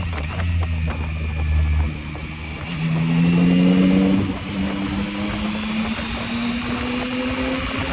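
Yamaha MT-09's three-cylinder engine pulling under a rush of wind. Its note dips about two seconds in, then rises as the bike accelerates and keeps climbing slowly.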